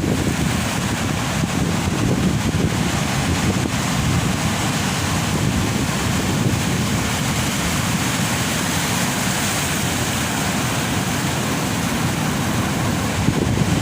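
Heavy ocean surf breaking and rushing on the beach in a steady roar of noise, with wind buffeting the microphone.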